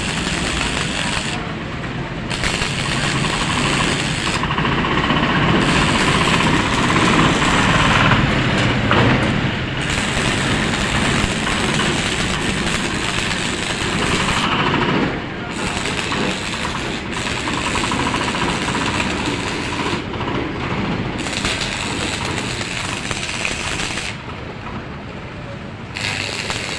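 Loud, continuous noise of machinery and metalwork on a hopper assembly, with short dips in its hiss now and then.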